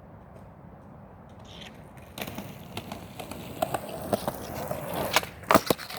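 Skateboard wheels rolling on concrete from about two seconds in, followed by the board's sharp clacks and slaps in a trick attempt, loudest near the end.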